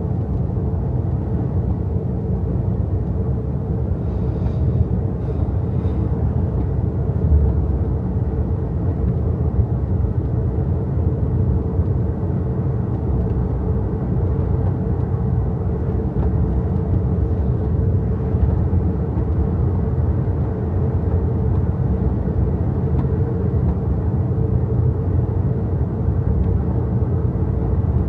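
XPENG G6 electric SUV driving along, its road and tyre noise a steady low rumble with an even hum above it.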